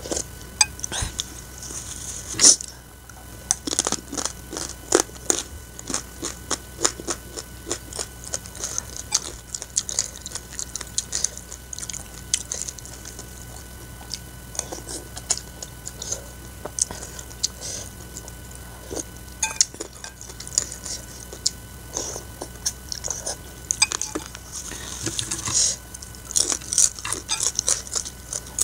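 Close-mic mukbang eating sounds: wet chewing and lip smacks on spicy Samyang instant noodles in soup, many short irregular clicks. Crunching of a fried spinach chip comes near the end.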